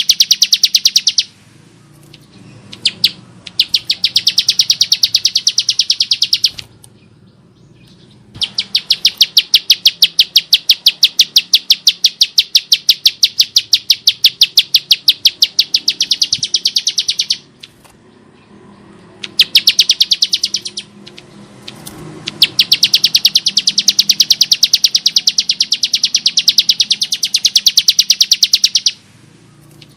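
Bar-winged prinia (ciblek sawah) singing in long bouts of rapid, evenly repeated harsh notes, each bout running several seconds before breaking off in short pauses.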